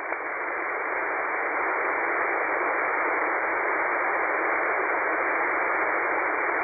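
Radio static: steady hiss from an online SDR receiver tuned to a frequency with no signal, heard through its narrow speech-width passband. It swells over the first second or two and then holds steady. This is the empty channel after the call ends, with the receiver open and waiting for a reply.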